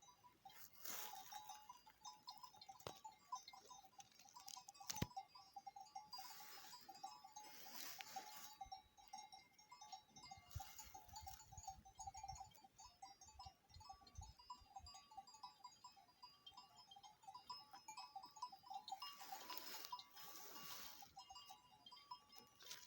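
Faint, distant flock of small livestock, with a wavering tone that carries on throughout, under quiet countryside ambience with a few soft rustles and clicks.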